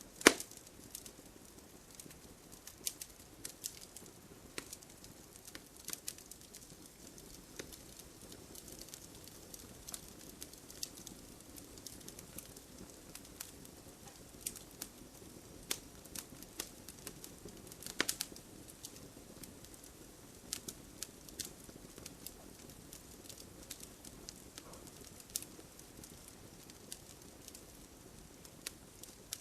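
Wood fire burning in a fireplace: a low hiss of flames with scattered sharp crackles and pops, a loud pop just after the start and a cluster of pops around the middle.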